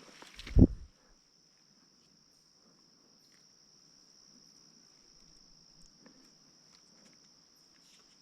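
A steady, high-pitched chorus of crickets. About half a second in there is one loud, low thump, and faint scattered clicks follow.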